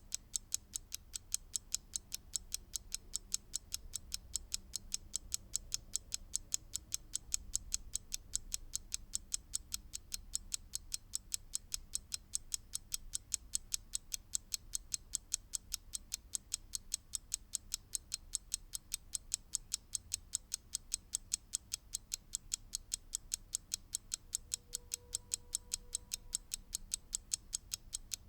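Mechanical clock ticking: rapid, evenly spaced sharp ticks at a steady rate.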